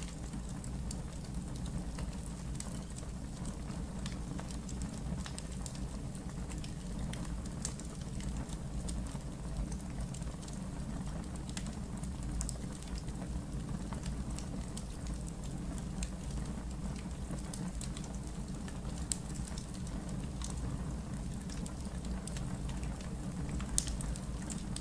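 Wood fire in a fireplace crackling: scattered small pops and snaps over a steady low rumble, with one sharper pop near the end.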